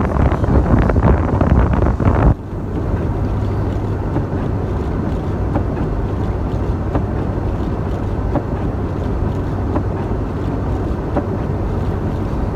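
Wind gusting hard on the microphone for about two seconds, cutting off suddenly, then a steady drone from the 1996 Ford Bronco truck driving through snow, heard from inside the cab: engine hum and road noise.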